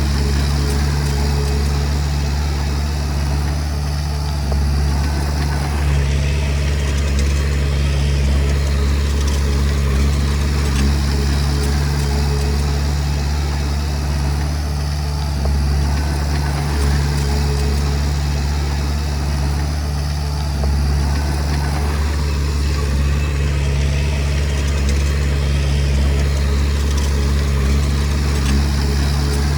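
Komatsu D20P bulldozer's diesel engine running steadily with a deep, even hum, rising and falling only slightly.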